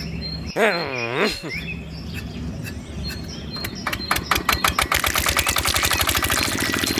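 Miniature diesel engine of a model water pump starting up and running with a rapid, even pulsing beat that grows faster and louder about four to five seconds in, after a brief wavering whine about a second in.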